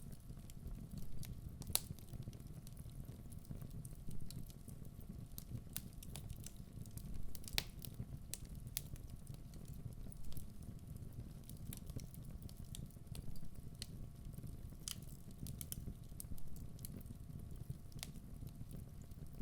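Wood fire burning in a fireplace: a steady low rumble of flames with sharp crackles and pops scattered irregularly throughout.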